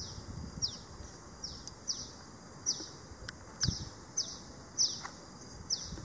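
A small bird calling over and over: about nine high, thin notes in quick succession, each sliding sharply downward.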